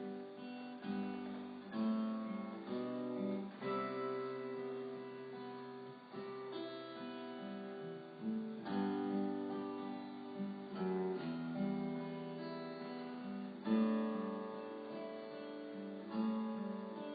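Acoustic guitar playing soft, slow chords, changing every second or two: background music for a time of prayer.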